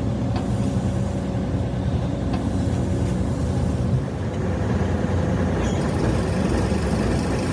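An engine running steadily with a low rumble; its even hum loosens into a rougher noise about four seconds in.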